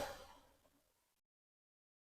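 Near silence: a sound left over from just before fades out within the first half second, then the audio drops to dead silence, as at an edit cut.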